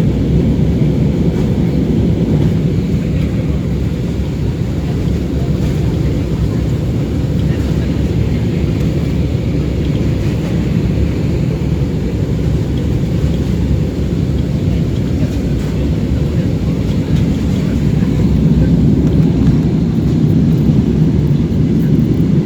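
Steady low cabin rumble of a jet airliner in flight: engine and airflow noise heard from inside the passenger cabin while the aircraft flies through turbulence.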